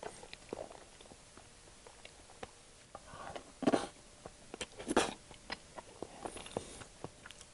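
Close-miked chewing and wet mouth sounds from eating a mouthful of soft scrambled eggs, with many small clicks and two louder smacks, about three and a half and five seconds in.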